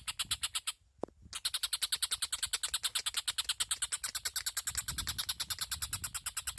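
Tengkek buto bird calling: a fast, evenly spaced string of sharp chattering notes, about nine a second, broken once for about half a second near the start.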